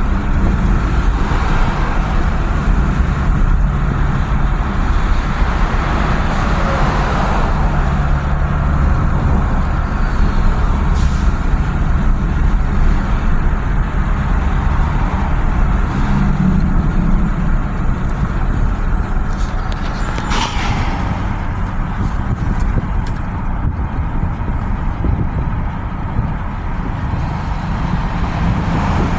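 Steady low rumble of a truck being driven in stop-and-go city traffic, heard from inside the cab, with one sharp knock about twenty seconds in.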